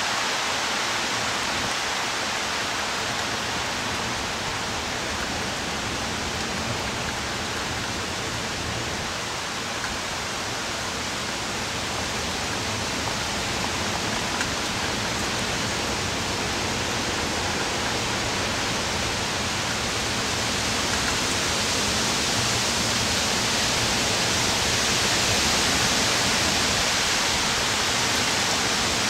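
Heavy hurricane rain and wind as a steady, dense hiss that swells louder about two-thirds of the way through.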